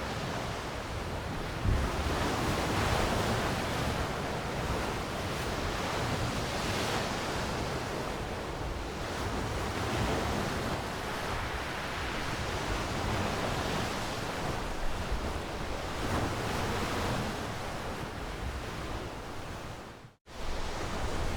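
Sea waves washing onto the shore in a steady surf, swelling and ebbing every few seconds. The sound cuts out for a moment near the end, then resumes.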